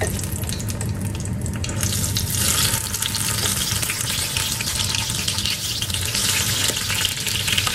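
Pointed gourd (parwal) pieces sizzling in hot oil in a steel kadai as they are slid in one by one with a spoon; the sizzle grows louder about two seconds in as more pieces go in. A steady low hum runs underneath.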